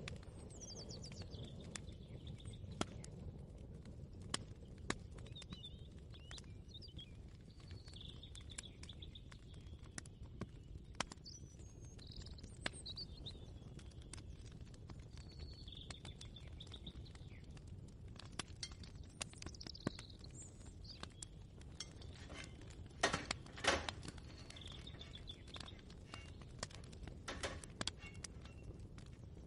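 Birds chirping outside, with scattered light clicks and clinks of dishes and kitchen utensils over a low steady background rumble. About three quarters of the way through comes a brief run of louder clinks.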